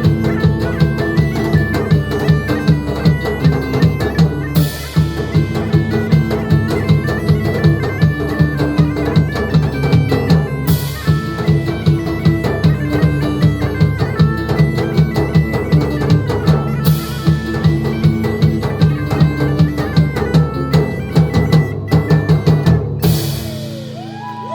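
Medieval market band playing bagpipes over a steady drone, with a driving drum beat and a cymbal crash about every six seconds. Near the end the drums stop and the pipes' drone holds on alone.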